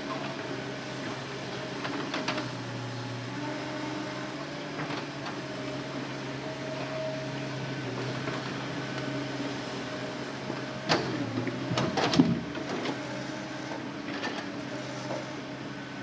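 Hitachi Zaxis excavator engine running steadily. About eleven seconds in comes a cluster of sharp knocks and clunks, the loudest part.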